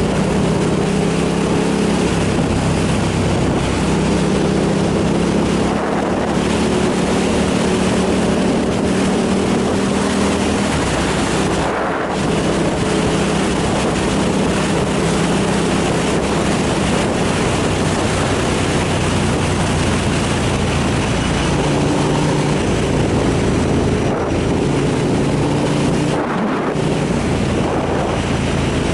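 Motorcycle engine running under way, its note rising and falling with the throttle, over steady wind rushing across the microphone.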